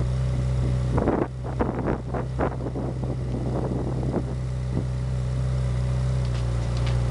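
Ferrari 458 Italia's 4.5-litre V8 idling steadily through its triple exhaust. Irregular gusts of wind noise hit the microphone between about one and three seconds in.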